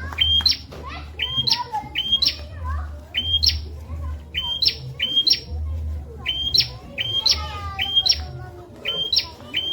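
Prenjak, a prinia, calling over and over: a sharp two-step chirp that jumps up in pitch, repeated about once or twice a second, often in quick pairs, over a low hum. It is a masteran song for tutoring caged songbirds.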